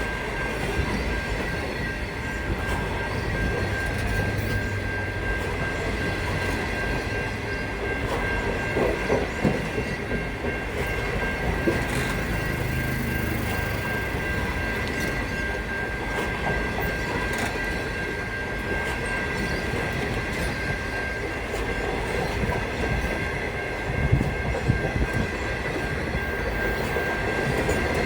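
A train running on the track, with a steady high-pitched whine and occasional clicks over the rails.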